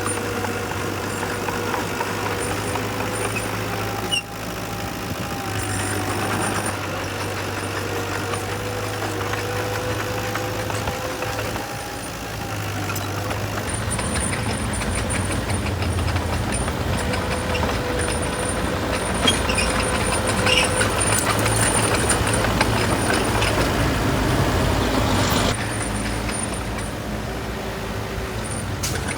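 Heavy diesel construction machinery running: dump truck and bulldozer engines working. The engine sound swells through the middle and drops back a few seconds before the end.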